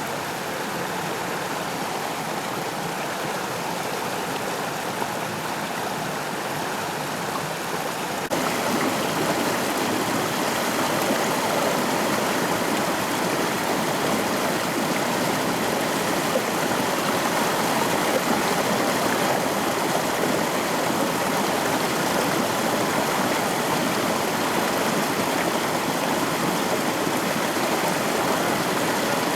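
Steady rush of the McCloud River's flowing water, a dense even roar of water over rocks. It steps up abruptly in loudness about eight seconds in, then holds steady.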